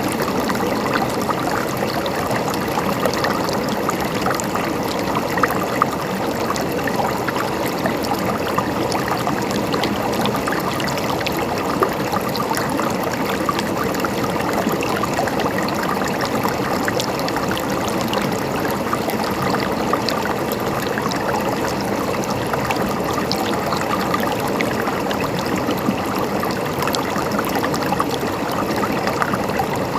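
Small stream of water trickling and gurgling steadily, with many small splashes through it.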